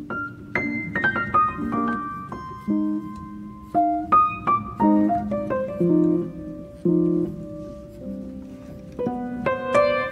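Background piano music: gentle single notes and chords that ring and fade, with a run of falling notes near the start.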